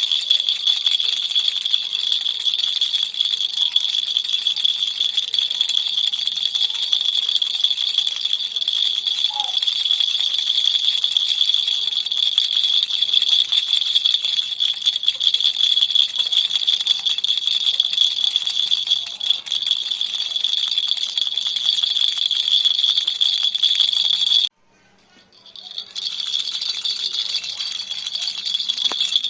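Baby's toy rattle shaken continuously, a dense, bright, high rattling. About 24 seconds in it stops abruptly for a second or so, then starts again.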